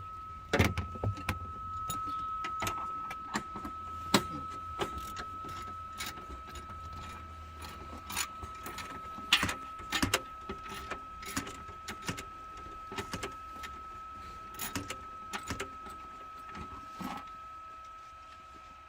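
Scattered clicks, clinks and knocks of metal parts and tools being handled in a truck cab, over a steady high thin tone.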